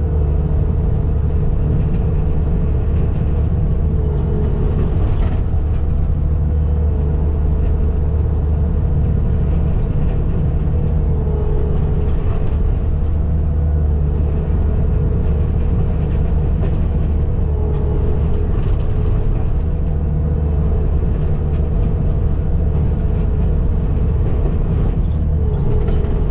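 Skid steer's engine running steadily at working speed, a deep continuous hum with a fainter tone above it that wavers slightly.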